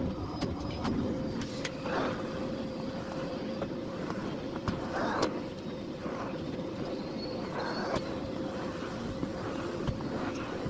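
Miele Blizzard CX1 Cat & Dog PowerLine bagless cyclonic vacuum cleaner running steadily with a constant motor whine, as the floorhead is pushed over the floor, with scattered clicks and knocks.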